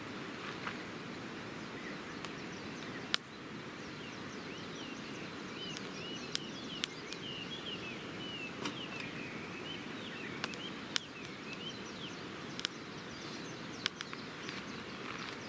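Wood campfire crackling, with sharp pops at irregular intervals over a steady hiss. A bird twitters in quick, wavering phrases through the middle stretch.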